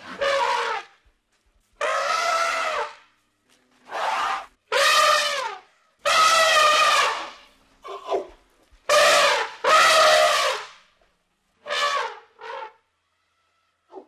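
An elephant trumpeting: a series of about ten short, loud calls, each up to about a second long, separated by brief pauses.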